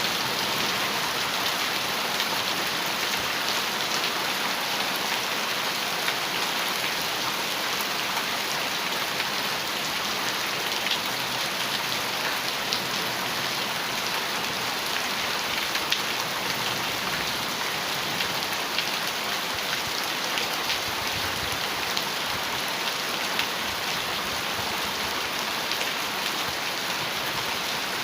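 Heavy rain falling steadily on a metal roof, a dense even hiss speckled with the sharp ticks of individual drops hitting the sheet metal.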